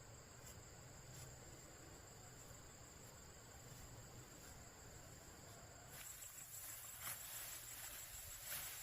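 Faint steady high-pitched chirring of insects. About six seconds in, it gives way to a brighter hiss with scattered crackling and rustling.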